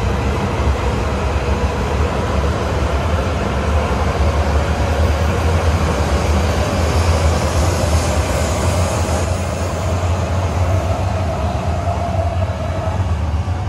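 E5 series Shinkansen train moving at low speed alongside the platform, a steady low rumble with a hiss of wheels and running gear. A faint whine comes in over the last few seconds.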